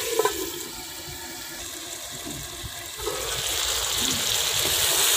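Chicken and potatoes sizzling in a metal pot. A metal lid goes on with a clink just after the start and muffles the sizzle, then comes off with a knock about three seconds in, and the sizzling grows louder again.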